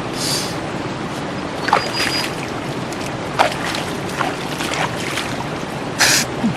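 Heavy rain pouring steadily on a tent, with a few sharp taps scattered through and a brief hiss about six seconds in.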